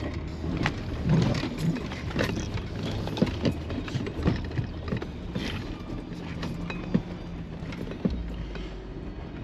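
Jeep JL Rubicon crawling over rough ground: a steady low engine drone with irregular knocks and rattles from the vehicle as it bumps along.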